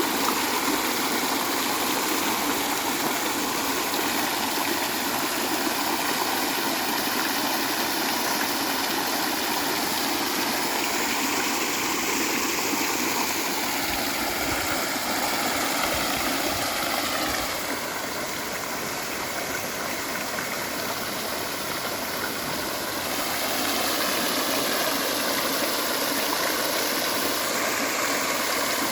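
Water from a ring jet fountain splashing down in a steady rush. It grows softer for about six seconds past the middle, then comes back up.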